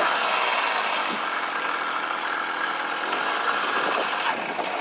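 Small gasoline engine of a motorized bicycle running steadily with an even buzz.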